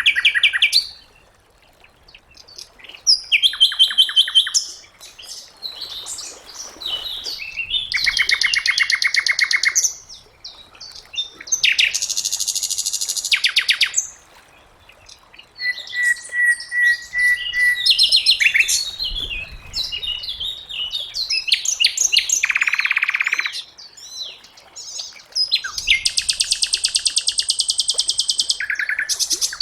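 Sikatan londo, a flycatcher, singing loud phrases of very fast, high-pitched trills and chatters, each a second or two long with short pauses between, and one short run of clear repeated whistled notes about halfway through.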